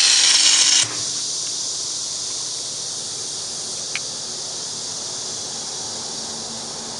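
Drawn arc stud welder firing: a loud arc hiss cuts off sharply about a second in. A steady, quieter high hiss follows, with one faint click partway through.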